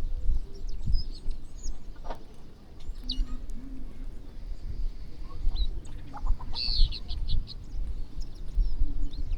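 Birds chirping in short, scattered calls, with a quick run of chirps a little past the middle, over a low rumble and dull thuds.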